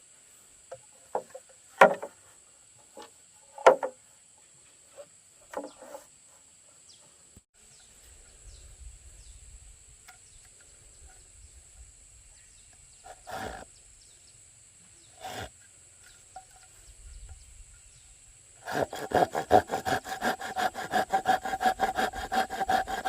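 A few sharp wooden knocks and taps, two of them loud, as bamboo pieces are handled, then a few single knocks. Near the end a hand saw starts cutting bamboo in rapid, even strokes.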